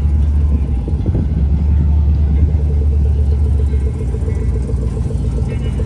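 A vehicle engine running close by with a loud, deep rumble that eases off about four seconds in, leaving an even, rapid pulsing.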